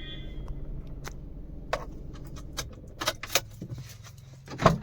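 Handling noises in and around a small car: a few sharp clicks, then a louder knock near the end, over a low steady hum.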